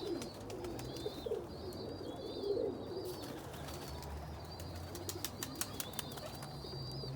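Domestic pigeons cooing, in repeated low rising-and-falling calls, over a steady high chirping, with a few sharp clicks in the middle.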